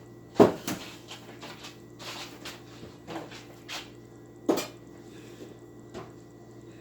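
Knocks and light clatter of kitchen containers being handled and set down, with two louder thuds, about half a second in and about four and a half seconds in, and smaller clicks between.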